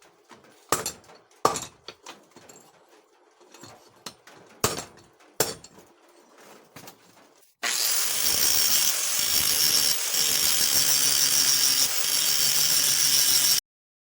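A few scattered sharp knocks and taps of metal work, then a power tool starts and runs steadily with a loud hissing noise for about six seconds before cutting off abruptly.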